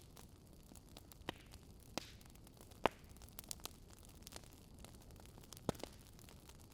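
Wood fire crackling: scattered sharp pops over a soft steady hiss, the loudest pop nearly three seconds in and a few quick ones just after.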